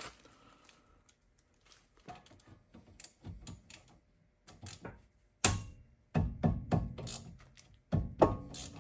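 Hand tools working loose a brake caliper bolt: scattered metal clicks and ratcheting, then louder metallic knocks and clanks from about five seconds in.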